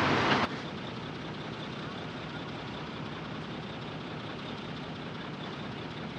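A loud clattering with knocks cuts off suddenly about half a second in, leaving a heavy diesel engine of construction machinery running steadily at a lower level.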